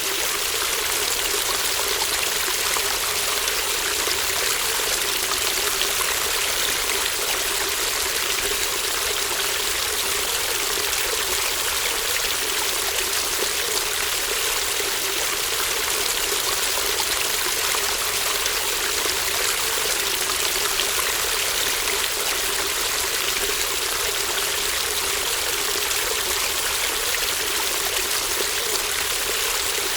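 A small babbling stream flowing steadily, an even, unbroken rush of water.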